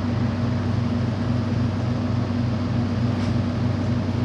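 A running motor or engine droning steadily, with a slight even pulse in its low hum.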